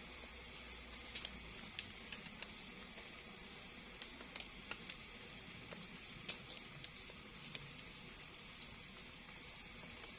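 Faint night ambience in a bamboo forest: a steady high hiss with scattered light ticks and taps at irregular intervals.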